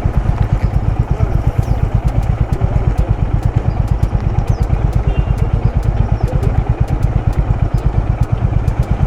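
Motorcycle engine idling, a steady rapid low throb.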